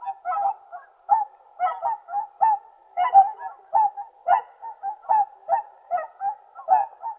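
Whooper swans calling: a rapid series of short bugling calls, about two to three a second, without a break.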